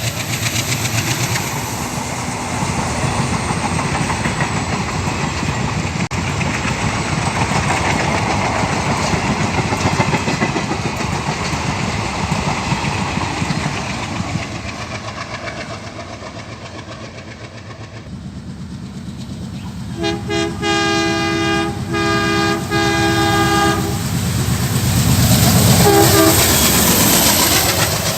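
Diesel-hauled train running on the rails with a steady rumble, then the WDM3A locomotive's horn sounding a series of short blasts past the middle, followed by the engine's heavy low rumble building again near the end.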